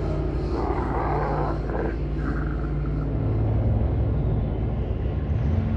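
Sports car engine running at a steady speed, a low drone, with a rush of road and wind noise early on that fades after about two seconds.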